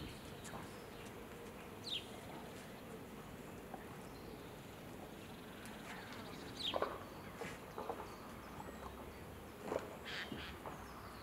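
Faint open-air yard ambience with a few short bird chirps that drop quickly in pitch, one every few seconds, and a small burst of chirps with some soft knocks near the end.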